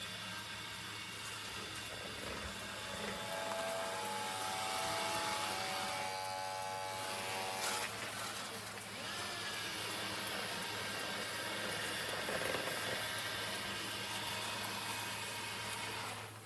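Dreame D20 Pro Plus robot vacuum running: a steady small-motor hum with an even hiss of air. Some higher steady tones join it for a few seconds around the middle.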